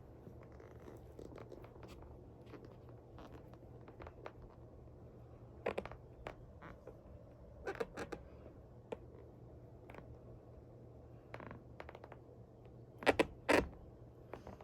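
Scattered scraping, rustling and clicking of things being handled, with a few louder scrapes and the two loudest close together near the end, over a low steady hum.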